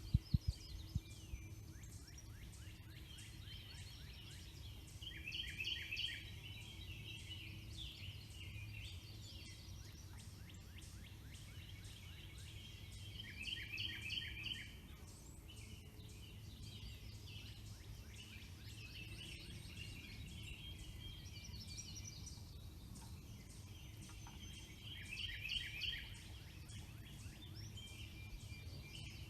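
Songbirds singing in a spring dawn-style chorus. One bird repeats a short, fast trill about every eight to ten seconds, the loudest sound, over a steady low rumble. A few sharp taps come in the first second.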